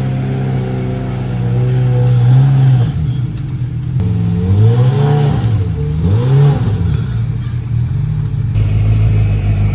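Off-road vehicle engine running steadily, then revved up and down several times in the middle before settling back to a steady run.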